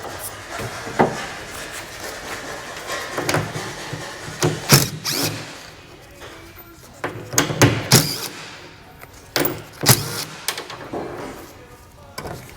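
Background music under a series of sharp knocks and clanks, bunched in several groups and loudest around the middle, from hand work on a vehicle body.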